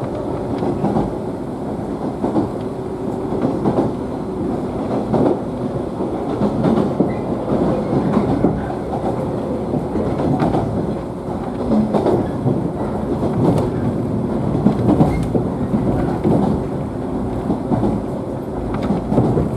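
Inside a JNR 113 series electric train car running between stations: a steady rumble with wheels clacking irregularly over rail joints.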